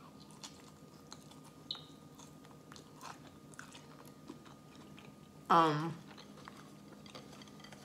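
Close-miked chewing of a bite of sushi roll, with scattered small wet mouth clicks. About five and a half seconds in, a short vocal sound from the eater, falling in pitch, is the loudest moment.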